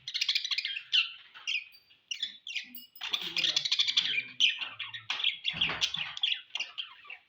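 Budgerigars chirping and chattering: a dense stream of rapid, high chirps, busiest in the second half.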